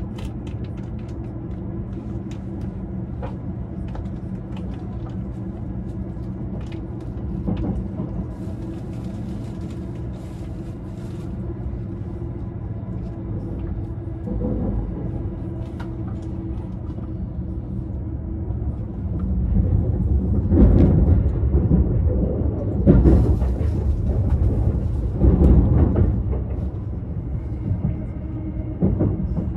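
Running noise of an E353 series limited express train heard from inside the passenger car: a steady rumble under a low hum, swelling louder for several seconds in the second half.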